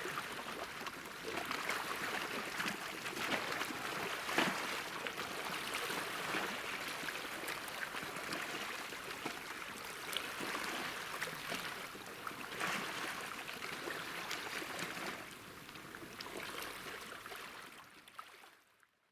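Gentle sea waves washing and lapping at the shore, a steady hiss of water with many small splashes, swelling and easing every few seconds. It fades out near the end.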